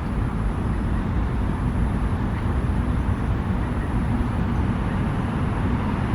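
Steady low rumble of city traffic, with a faint thin high-pitched whine running over it.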